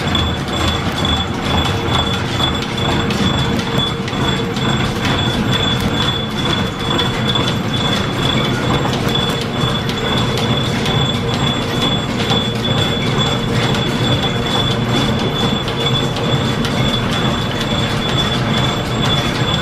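A train rolling on rails: a steady rumble with a thin, continuous high wheel squeal and rapid clicking throughout.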